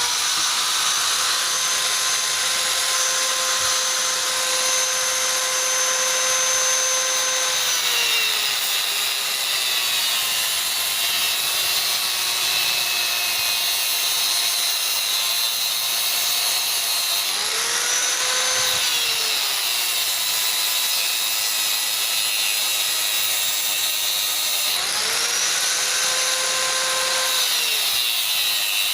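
Handheld electric power tool running hard on a scrap fridge compressor, its motor whine sagging in pitch several times as it is loaded against the metal and rising again when it is eased off.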